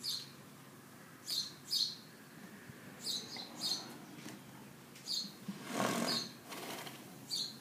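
Small birds chirping in short, high calls every second or so, with a brief rushing noise about six seconds in.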